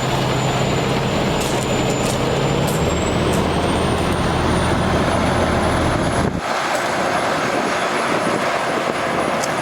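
Diesel engine of a water truck running at raised throttle to drive the PTO water pump for the hose reel, under a steady rushing hiss. A thin high whine rises in pitch a few seconds in, and the low engine sound drops away abruptly about two-thirds of the way through.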